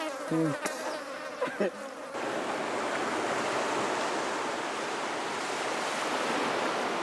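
Flies buzzing close by in short passes that rise and fall in pitch for about two seconds, then a sudden change to the steady rush of surf breaking on a beach.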